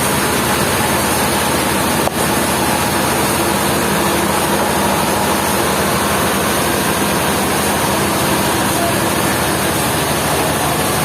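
Sawmill machinery running steadily with a loud, even mechanical noise. A brief click comes about two seconds in.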